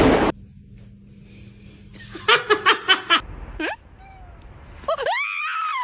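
A person giggling in about five quick bursts, then rising, pitched vocal sounds near the end.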